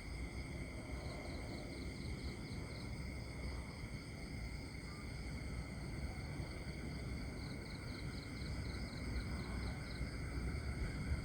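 Countryside nature ambience: crickets and other insects trilling steadily at several high pitches, with a quicker pulsed chirping that comes in two spells, about a second in and again around seven seconds in, over a low background rumble.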